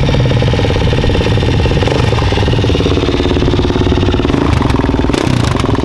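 Dirt bike engine running steadily and loud, its note shifting slightly a couple of times.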